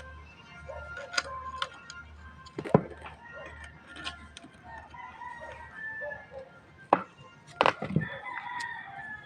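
A rooster crowing and chickens clucking, broken by several sharp knocks about 3 s, 7.5 s and 8 s in.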